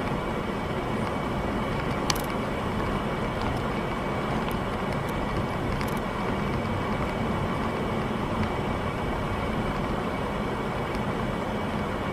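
Steady road and engine noise of a car on the move, with a sharp click about two seconds in.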